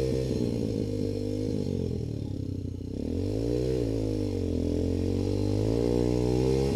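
Trail motorcycle engine running at low revs. Its pitch sags a little past the middle, then picks back up and holds.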